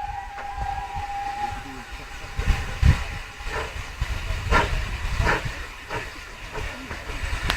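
Steam whistle of pannier tank locomotive 5786 dying away, then slow, uneven exhaust chuffs about every 0.7 s over a steady steam hiss as the engine starts to move.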